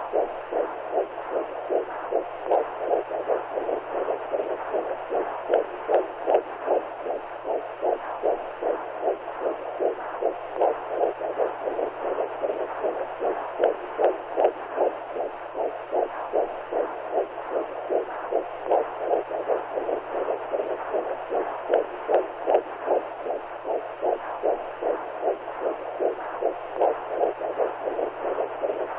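Womb sound: a whooshing noise pulsing in an even, heartbeat-like rhythm, with a faint steady low hum underneath.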